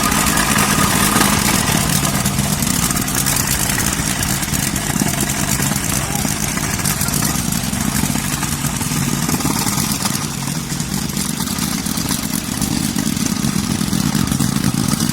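Soil compactor's engine running steadily, with a rapid, even pulsing vibration throughout.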